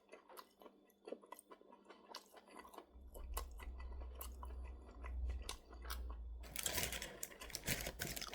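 A person chewing a ketchup-dipped chicken nugget close to the microphone: small wet clicks and crunches of the mouth. A low rumble comes in about three seconds in, and a louder hissy noise takes over near the end.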